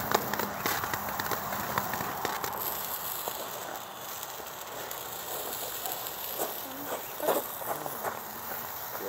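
Small consumer firework crackling: dense crackle for the first couple of seconds, then thinning out, with a few louder cracks about seven seconds in.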